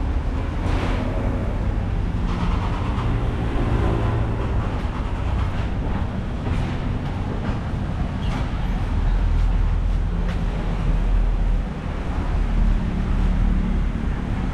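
Road traffic passing: vehicle engines going by, over a steady low rumble.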